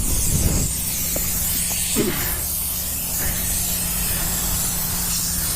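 Steady wind rush over the microphone while riding, with a Honda CBR600 F4i's inline-four engine holding a steady hum underneath.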